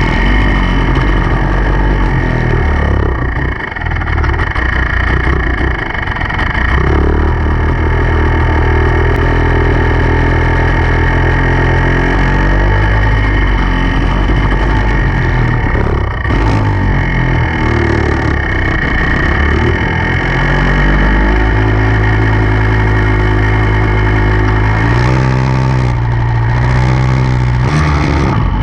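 Enduro dirt bike engine running hard, its revs holding steady for a few seconds at a time and then dropping and rising again several times as the rider works the throttle and gears.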